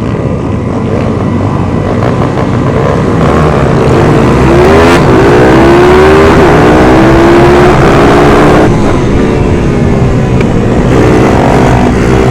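Several 140cc minibike engines at full throttle, overlapping, their pitch climbing and dropping with gear changes as they accelerate.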